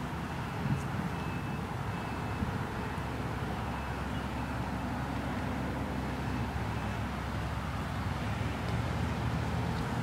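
Steady outdoor road ambience: a low, even rumble of distant traffic with no siren or nearby vehicle passing.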